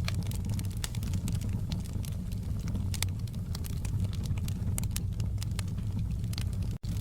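Wood fire crackling: many sharp, irregular pops and snaps over a steady low rumble of burning flames. The sound cuts out for an instant near the end.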